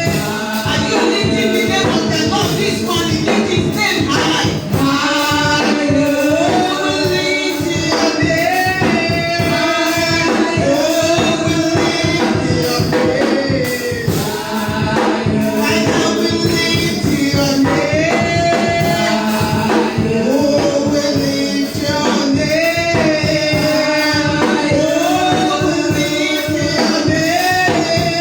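Gospel worship music: a group of voices singing over a steady beat, with tambourine or other hand percussion.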